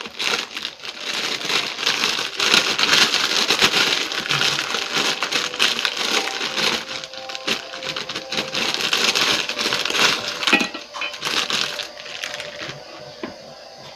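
Dense crackling and crinkling of a pack of kerupuk crackers being handled close to the microphone, full of small sharp cracks, dying down about twelve seconds in.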